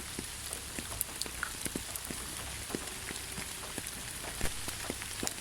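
Steady rain falling in a thick pine forest: an even hiss with many separate drops hitting close by, one a little louder about four and a half seconds in.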